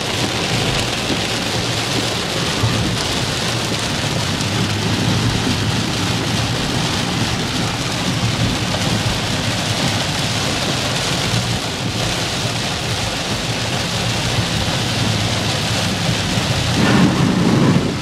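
Heavy rain pouring down in a steady, loud wash, with a louder low rumble swelling near the end.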